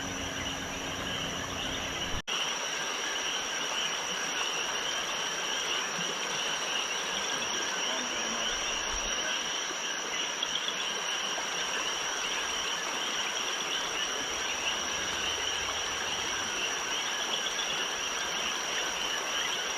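Night chorus of crickets and other insects, a steady high-pitched trill with a dense shimmering buzz beneath it, cut off for an instant about two seconds in.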